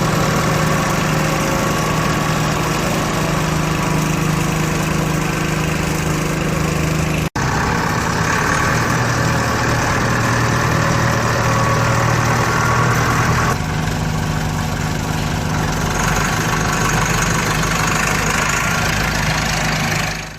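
Massey Ferguson MF 290 tractor's 4.41-litre four-cylinder direct-injection diesel engine running steadily at idle. The sound drops out for an instant about a third of the way in and comes back with a slightly different tone, then shifts again a little past halfway.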